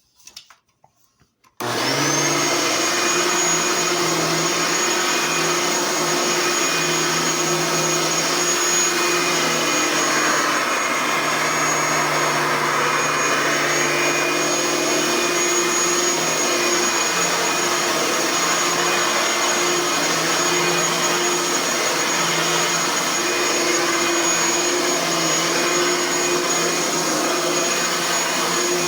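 Bissell Power Partner 800 upright vacuum cleaner, fitted with a brand-new fan, switched on about a second and a half in. Its motor spins up at once to a steady run with a high whine over an even rush of suction, while it is used to vacuum.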